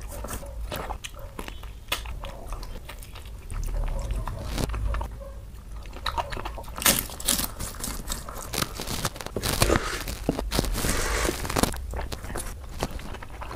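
Close-miked chewing and biting of a Kerala sadya meal of rice and curries, with crisp, crackly crunches that come in louder stretches about seven and ten seconds in. Fingers squish and mix rice on a banana leaf between mouthfuls.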